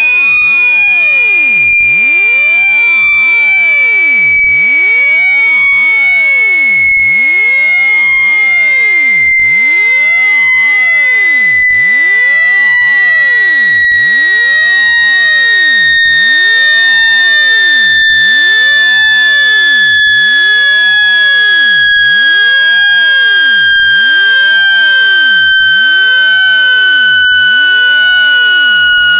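Loud, steady synthesized tone with overtones, sliding slowly and evenly down in pitch. It is a speaker-cleaning sweep tone meant to shake water and dust out of a phone's speaker.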